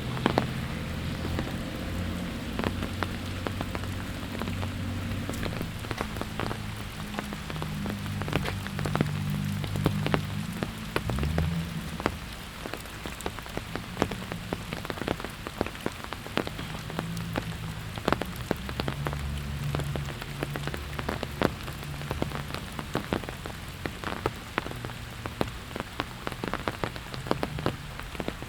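Steady rain falling, with many sharp drops tapping close by. A low hum sounds underneath, fading out about twelve seconds in and returning for a while later.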